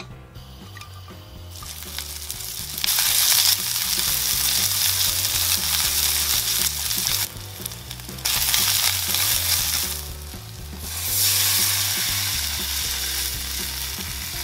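Scallions and garlic, then chili powder and doenjang, sizzling as they fry in oil in a frying pan on low heat and are stirred with a spoon. The sizzle builds over the first few seconds, breaks off briefly twice, and comes back loud.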